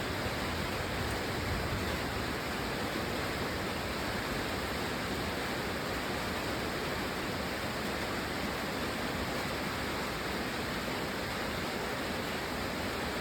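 Heavy, steady rain: a dense, even hiss with no separate drops, thunder or pauses.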